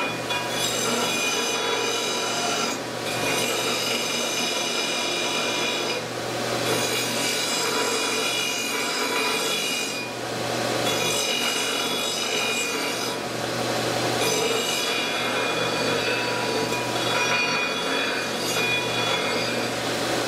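Square steel tube being ground against the 12-inch abrasive disc of a Delta 31-730 belt/disc sander, beveling its end for welding. Loud, steady grinding with a high ringing over the motor's hum, easing off briefly every three to four seconds as the tube is lifted and set back.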